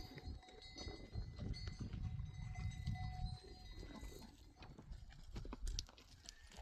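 Faint ringing of neck bells on a herd of goats. A low rumble runs under it about one to three and a half seconds in.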